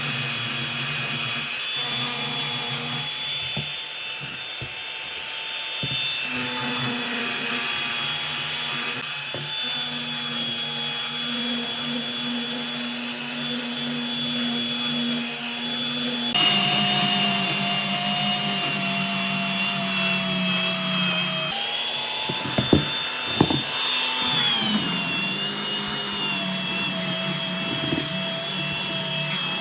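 Electric power tool motor running steadily in a woodshop, its pitch jumping a little past halfway and dropping later on, with two sharp knocks about three-quarters of the way through.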